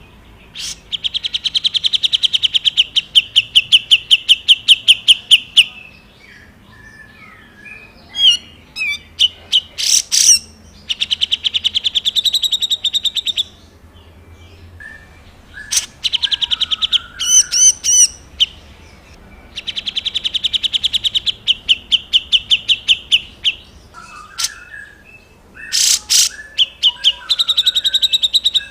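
A 'jenggot' songbird singing in full voice: three long, fast, even trills, each lasting about five seconds, with shorter sharp whistled notes and calls in the gaps and another trill starting near the end. This rapid rattling trill is the 'besetan' that bird-keepers prize for tutor recordings.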